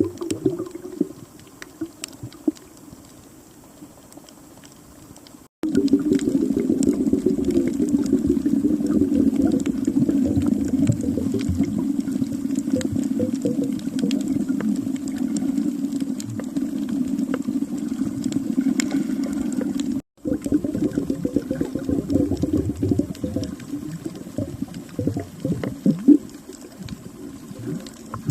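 Muffled underwater sound: a steady, dense bubbling and crackling of water, with the low rush typical of a camera recording beneath the sea surface. It is fainter for the first few seconds, then louder, and drops out briefly twice.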